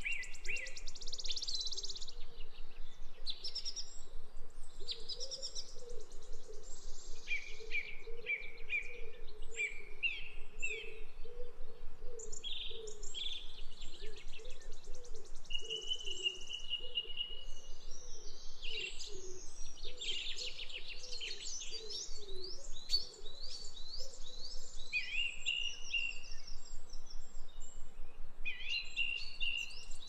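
Birdsong: several small birds chirping and trilling in quick, overlapping phrases, with a fainter lower repeated call underneath for most of the time.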